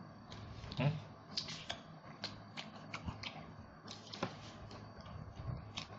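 Close-miked chewing of roast duck: a run of short, sharp clicks and crunches from the mouth, with a louder mouthful about a second in.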